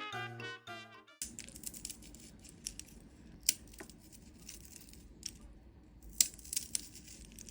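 A short music passage cuts off about a second in, followed by quiet room noise with scattered small clicks and taps.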